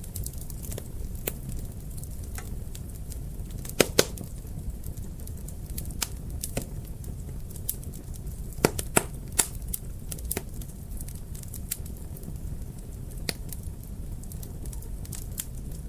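Fire in a fireplace crackling: irregular sharp pops and snaps over a low steady rumble of the flames, with the loudest pops about four seconds in and around nine seconds in.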